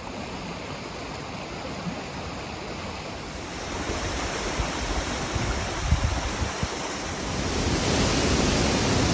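Roar of a waterfall, a steady rush of falling water that grows louder in two steps, about a third of the way in and again near the end. Gusts of wind buffet the microphone with low rumbling thumps.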